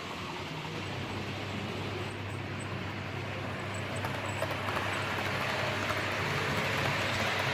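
Model railway diesel locomotive running on a layout: a low steady drone comes in about a second in over the hiss of the room, with faint clicks later on, growing slightly louder toward the end.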